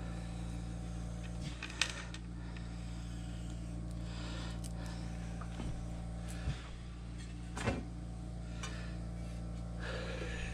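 Steady low hum with a few light knocks and clicks of metal parts being handled, as guards are refitted on a key-cutting machine.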